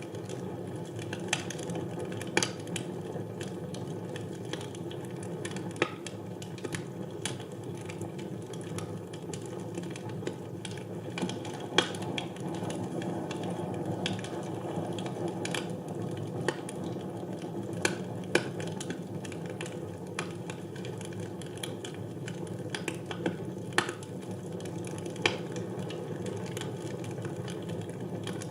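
Wood fire burning in a fireplace: a steady low rush of flame with irregular sharp crackles and pops from the burning logs.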